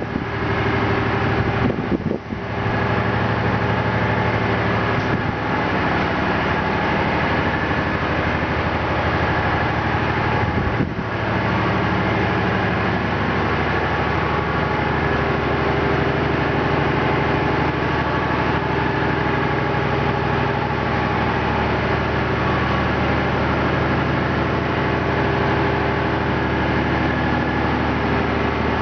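Steady, loud drone of a tanker's engine-room machinery, with many constant tones over a hum, dipping briefly twice.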